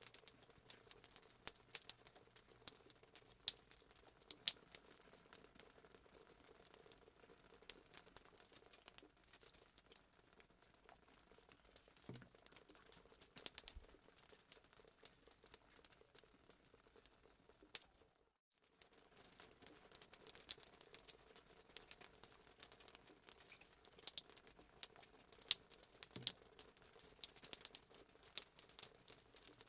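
Faint crackling and popping of a fireplace sound effect: irregular sharp snaps over a soft hiss, cutting out for a split second about two-thirds of the way through.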